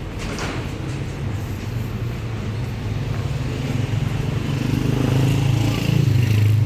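A motor vehicle engine running with a steady low hum that grows louder over the last few seconds.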